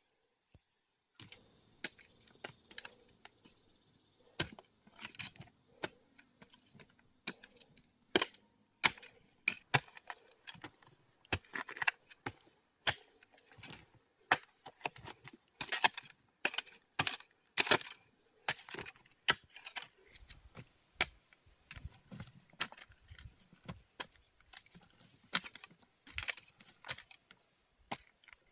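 Irregular series of sharp knocks and clinks of hard objects being struck, roughly one to two a second.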